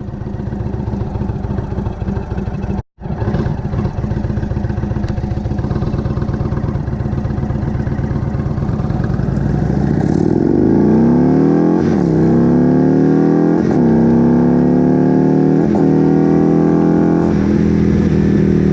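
Indian motorcycle V-twin engine heard through the handlebar-mounted action camera's built-in microphone: slow, loping beats at first, then hard acceleration, the pitch climbing and dropping back at each of four quick upshifts. The sound cuts out briefly about three seconds in.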